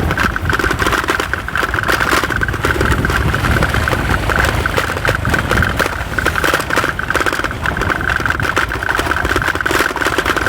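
Motorcycle engine running steadily while riding, with a constant low rumble and a steady high hum, and irregular buffeting noise over it.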